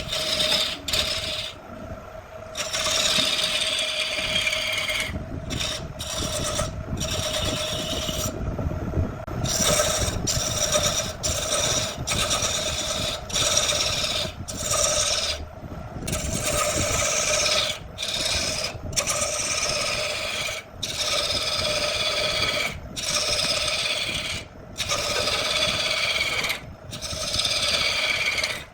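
A tool rasping against wood in repeated strokes, each lasting one to two seconds, with short breaks between them. A steady machine hum runs underneath.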